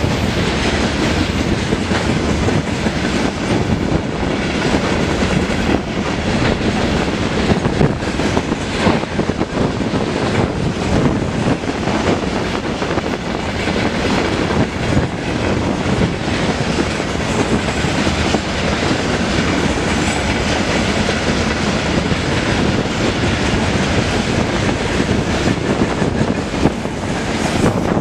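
Freight train wagons rolling past at steady speed, the wheels clattering over the rail joints in a continuous, loud run of knocks.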